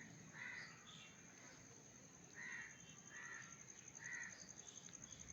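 A crow cawing faintly, four short caws spread over a few seconds, over a steady high-pitched pulsing whine.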